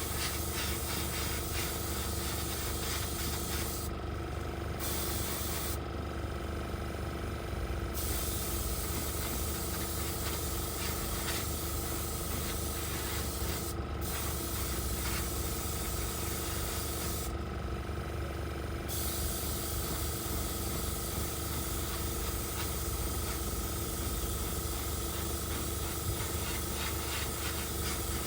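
Paint spray hissing steadily over a constant hum, with the hiss briefly cutting out several times.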